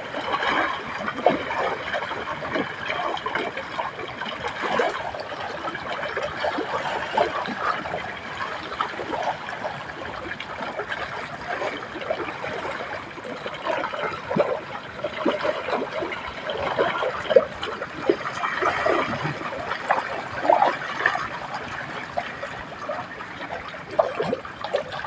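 Water trickling and gurgling, with many small irregular splashes.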